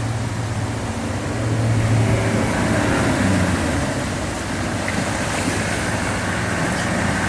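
Four-wheel-drive truck engine running as the truck wades through a river crossing, with a steady rush of water; the engine swells about two seconds in.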